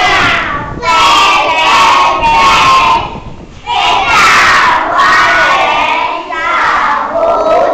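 A class of young children singing together in unison, in loud phrases with short breaks between them.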